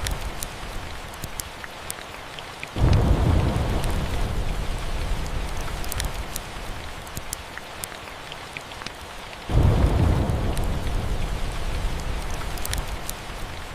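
Steady rain with the sharp crackle of a log fire. Two rolls of thunder break in suddenly, about three seconds in and again near ten seconds, each dying away over several seconds.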